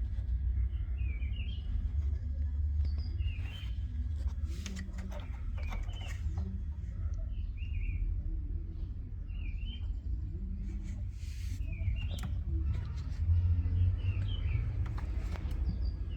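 Birds chirping in short repeated calls every second or two over a steady low rumble, with a few scattered clicks.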